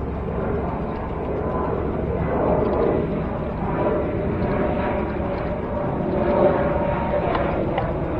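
Road traffic with engine hum from passing vehicles, under heavy rumbling wind noise on the microphone of a moving bicycle.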